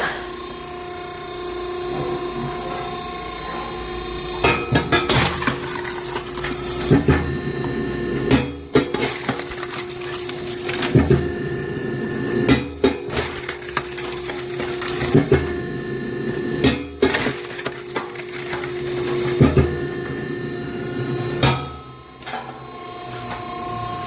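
Hydraulic log splitter running with a steady pump hum that changes tone as the ram cycles, while its cross-shaped blade splits oak rounds. Sharp cracks and knocks of wood splitting and pieces falling come about every two seconds.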